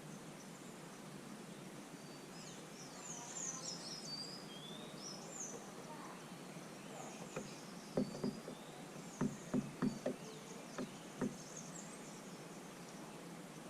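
Small birds chirping with short high calls, busiest in the first half. In the second half comes a quick series of about eight sharp knocks, louder than the chirping.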